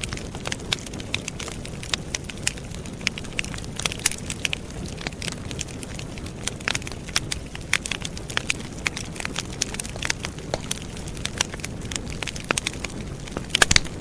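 Wood fire burning, with frequent irregular sharp pops and snaps of crackling wood over a steady low rush of flames.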